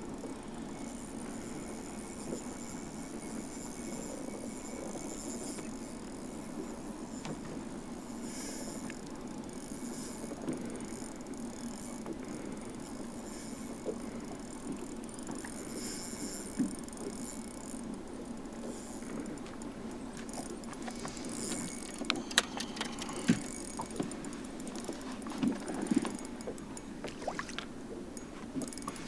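Boat-deck sounds while a bass is fought and landed from a bass boat: a steady rush of wind and water, then a run of sharp knocks and clicks in the last few seconds as the fish and tackle are handled.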